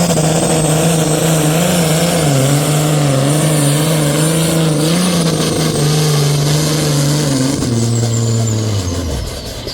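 Pro stock pulling tractor's turbocharged diesel engine at full throttle, dragging the weight sled. Its note wavers under the load, drops lower about three-quarters of the way through, then dies away near the end as the run finishes. A high whistle runs over it and sinks as the engine winds down.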